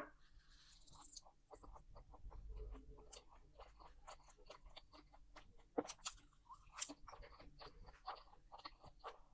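A person chewing and eating an omelette close to the microphone: soft mouth sounds and many small clicks, with a few louder smacks about six to seven seconds in.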